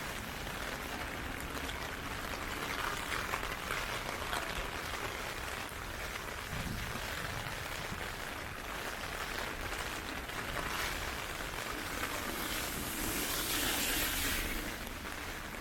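Heavy typhoon rain falling steadily, a continuous wet hiss, which swells louder and then fades near the end.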